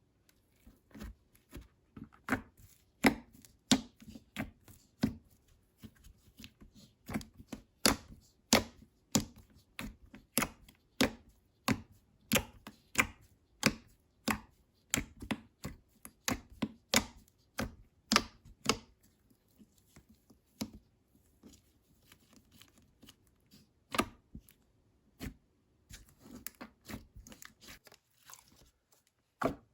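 Slime being squeezed and poked by hand, giving a string of sharp clicks and pops at an uneven pace of about one or two a second. The clicks thin out for a few seconds past the middle, then pick up again.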